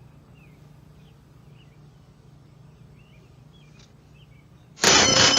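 Faint bird chirps, a few scattered calls over a low steady hum and hiss. Loud music cuts in abruptly near the end.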